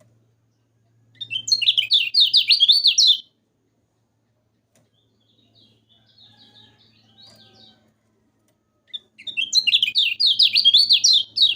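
Kecial kuning songbird singing: two loud bursts of rapid, sweeping high chirps, each about two seconds long, the first about a second in and the second near the end, with quieter twittering between them. A faint low hum runs underneath.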